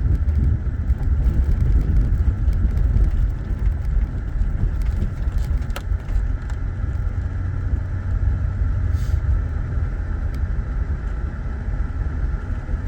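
2008 Saturn Vue driving on a rough road: a steady low rumble of road and engine noise, easing slightly after about three seconds, with one sharp knock about six seconds in.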